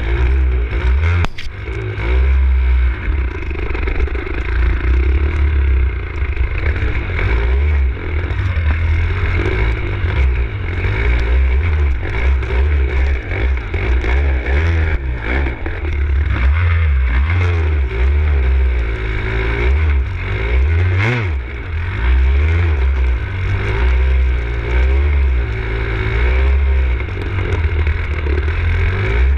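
Enduro dirt bike engine revving up and down continually while riding a rough, muddy trail, picked up from the handlebar-mounted camera, with frequent rattles and knocks from the bike over the bumps.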